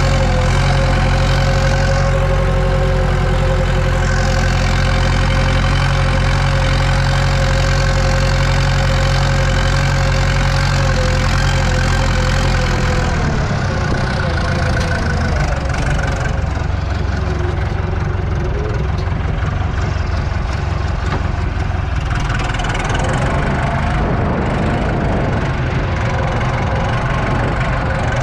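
Diesel tractor engine running steadily under load, heard from the cab while cultivating. About halfway through, the engine note drops and turns rougher and less even.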